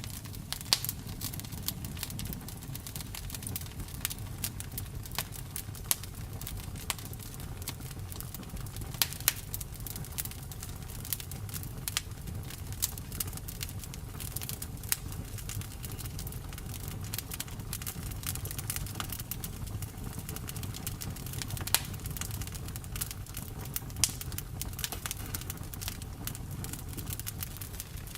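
Campfire burning with a steady low rumble and frequent, irregular crackles and sharp pops, a few of them much louder than the rest.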